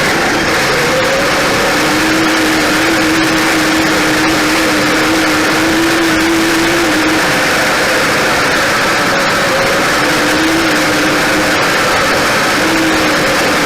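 Kyosho Blizzard radio-controlled snowcats running, a steady mechanical drive noise from their electric motors and tracks with a whine that comes and goes as the throttle changes.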